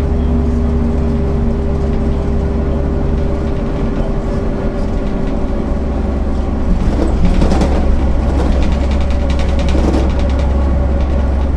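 MAN NL 262 low-floor city bus under way, its diesel engine running with a steady hum. About halfway through, a burst of rapid rattling clicks lasts some three seconds over the engine.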